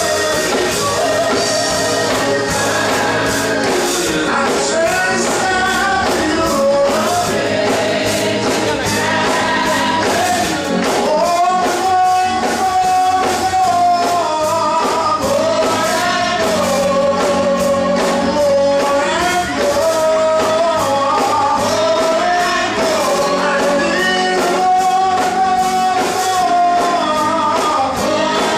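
Gospel music: voices singing long held notes over a band with a steady beat.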